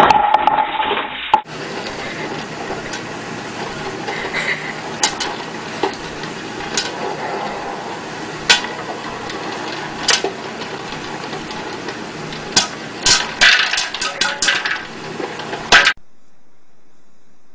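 Electric popcorn maker popping corn under its clear dome: a steady sizzling hiss with scattered sharp pops, which come thicker and faster near the end. It is preceded by a short loud clatter ending in a knock in the first second and a half.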